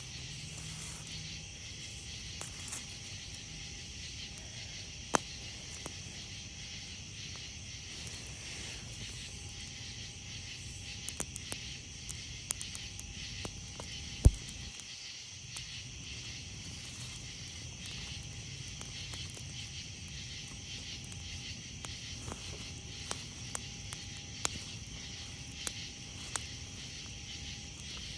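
Wood campfire crackling, with scattered sharp pops, the loudest about midway, over a steady chorus of night insects.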